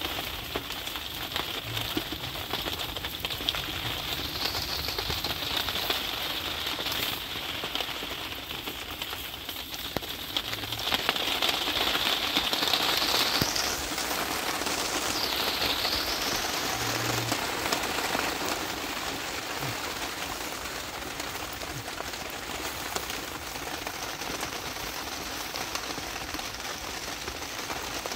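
Heavy rain falling steadily, growing louder for a few seconds around the middle.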